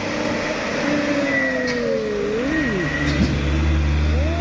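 Heavy truck engine revving under load, its pitch falling and then rising again, with a deeper low rumble building about three seconds in.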